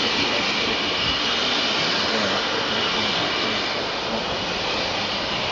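Steady hiss of escaping steam from GWR Castle class steam locomotive 5029 Nunney Castle, with no exhaust beat.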